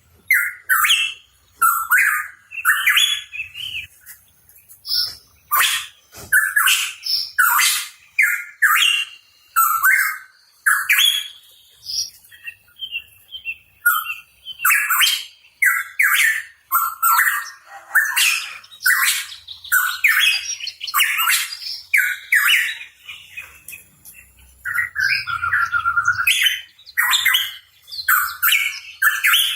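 Pitohui singing and calling: a continuous, rapid run of short whistled and harsh notes, mixed with sharp, high chips.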